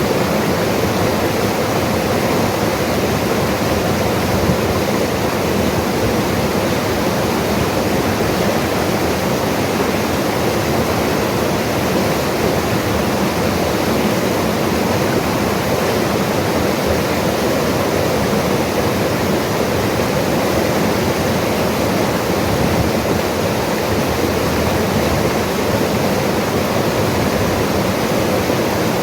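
Mountain river flowing steadily and loudly, a continuous even rush of water with no breaks.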